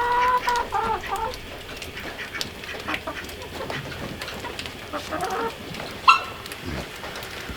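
Chickens clucking, with several short calls and one sharp, loud squawk about six seconds in.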